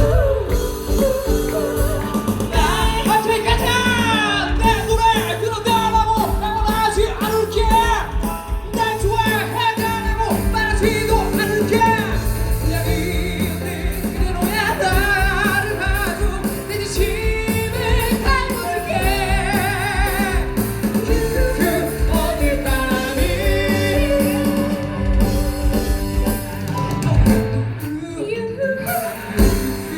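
Live singing with vibrato over band accompaniment with a steady beat: a musical-theatre number sung on stage.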